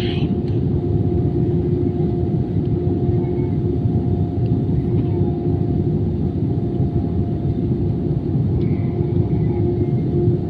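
Cabin noise of an Airbus A320 on the ground after landing: a steady low rumble with a constant humming tone, from the engines at idle and the cabin air system.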